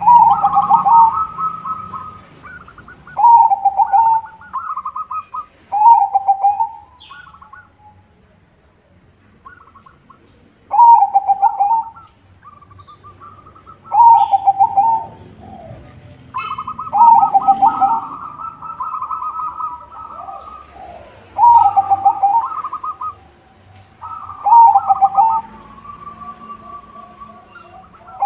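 White zebra dove (perkutut) cooing its rhythmic trilled song, a phrase every few seconds with one longer pause about a third of the way through.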